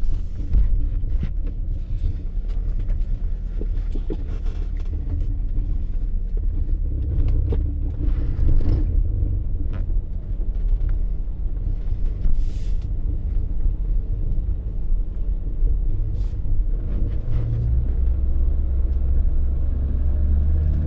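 BMW E30's M20 straight-six engine running, a steady low rumble heard from inside the car, with its pitch shifting as the engine speed changes.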